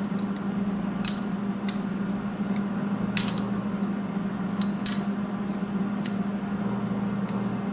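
Metal tools and parts clinking in a few sharp knocks, two of them in quick pairs, over a steady low hum.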